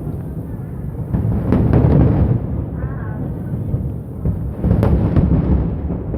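Fireworks booming overhead, a continuous deep rumble broken by sharp bangs about one and a half seconds in and again near five seconds.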